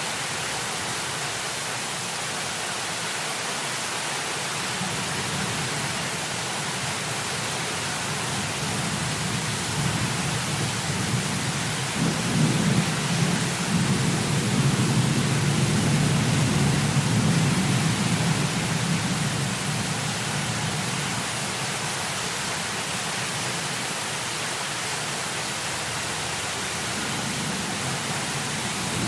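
Heavy rain falling in a steady hiss, with a long roll of thunder that builds from about five seconds in, is loudest in the middle, and dies away a few seconds later.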